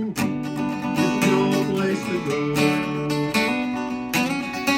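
Acoustic guitar strummed in an even rhythm, chords ringing between strokes, as an instrumental break between sung lines of a folk song.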